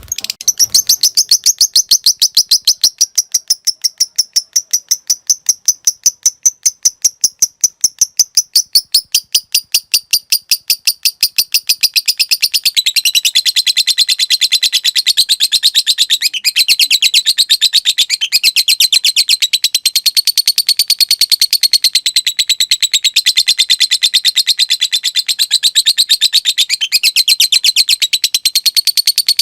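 Lovebird singing a long 'ngekek': an unbroken, rapid chattering trill of sharp, high notes that starts abruptly. About twelve seconds in, the notes drop a little in pitch and come faster and fuller, and the trill keeps going without a break.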